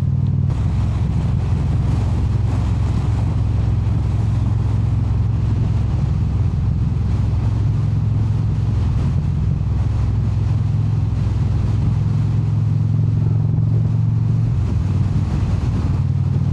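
Indian V-twin cruiser motorcycle running steadily at cruising speed, its low engine drone mixed with wind and road noise. The engine note steps slightly about half a second in and again near the end, as the throttle changes.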